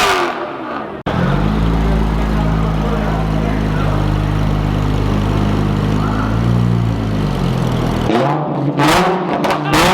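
A car engine held at steady revs for several seconds, its pitch sagging briefly before it changes.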